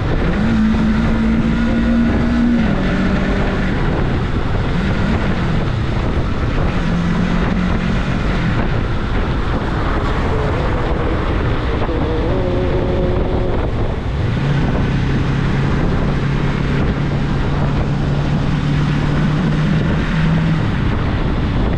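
Rusi Cyclone 400S motorcycle engine running under way, its note stepping and gliding up and down with throttle and gear changes, then held steady for several seconds in the second half. Wind rushes over the microphone throughout.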